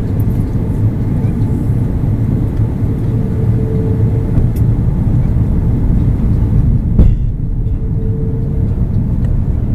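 Steady low roar of engine and airflow noise inside an Airbus A330-300 cabin on approach, with a single sharp click about seven seconds in.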